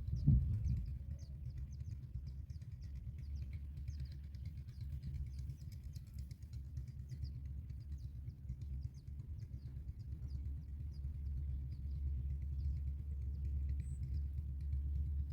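Faint, rapid high-pitched bird chirping, several short notes a second, over a steady low rumble, with a brief thump just after the start.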